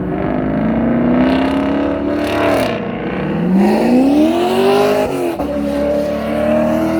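Hot rod car engine accelerating hard through the gears: its pitch climbs, drops sharply at a shift a little under three seconds in, climbs again and drops at another shift about five seconds in, then holds steady.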